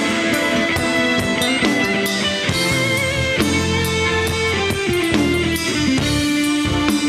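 A band playing an instrumental break of a gospel song: a lead line that glides and bends between held notes over drum kit and bass.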